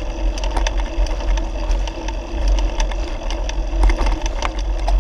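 Bicycle riding over a rough forest track: a steady low rumble with frequent rattles and clicks from the bike.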